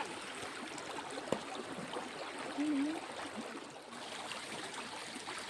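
Stream water running steadily, with a single sharp click about a second in.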